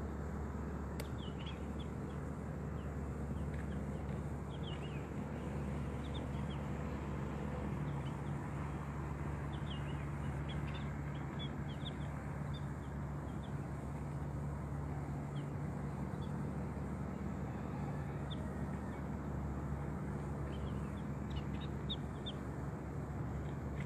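Small birds giving short, high chirps in scattered clusters over a steady low background hum.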